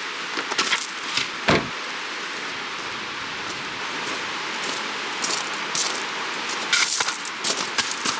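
Steady rushing hiss of a flowing creek and wind, with a scattered few sharp knocks and clicks, the strongest about a second and a half in and another cluster near the end.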